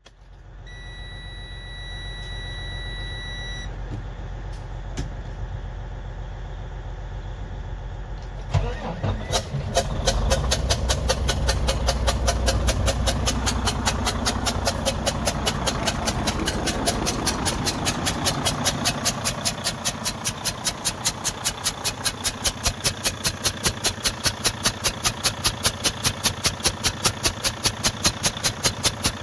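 Detroit DD15 diesel engine in a Freightliner Cascadia starting about eight seconds in after a steady hum and a brief electronic tone, then idling with a strong, regular pulsing beat. The beat goes with the compression leak from a damaged intake valve that is blamed for the engine's white smoke and low power.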